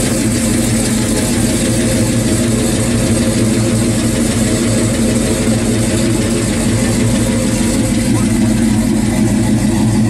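A 1970 Chevrolet Chevelle SS's big-block V8 idling steadily, the low, even exhaust note holding unchanged throughout.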